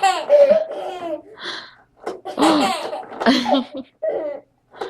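Young child laughing hard in several bursts, with a breathy gasp between them.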